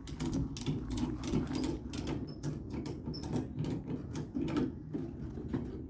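Ratchet tie-down strap being cranked tight: a fast, irregular run of clicks.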